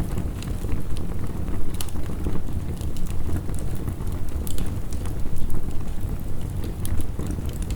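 Wood fire crackling with frequent sharp pops and snaps over a steady low rumble of heavy rain.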